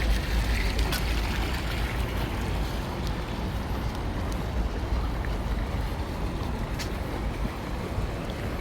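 Wind rumbling on the microphone over steady outdoor city noise, with a few faint clicks.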